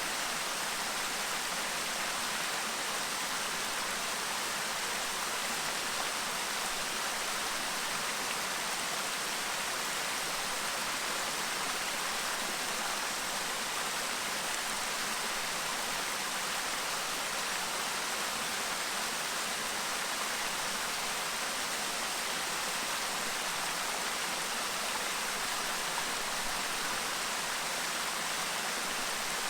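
Clear stream babbling over its bed: a steady, unbroken rush of running water, mostly hiss with little deep rumble.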